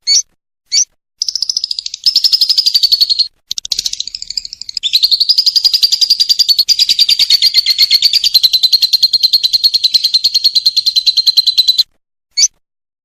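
Lovebird singing a long, rapid, high chattering trill, the drawn-out 'ngekek' call, that starts about a second in, breaks off briefly twice, and stops about a second before the end. Short sharp chirps come just before the trill and once near the end.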